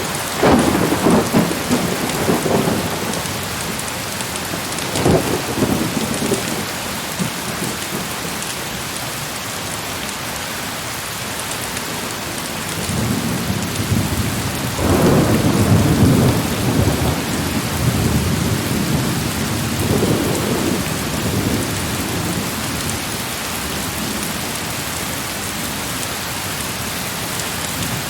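Heavy rain falling in a steady hiss, with rolls of thunder rumbling over it: one right at the start, a short one about five seconds in, the longest and loudest from about thirteen to seventeen seconds, and a weaker one around twenty seconds.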